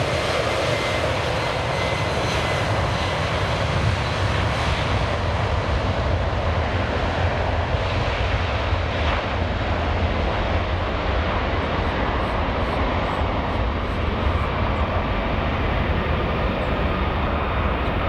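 Heavy jet airliner's engines, a steady loud rumble with a faint whine; the high hiss thins out over the second half as the sound recedes.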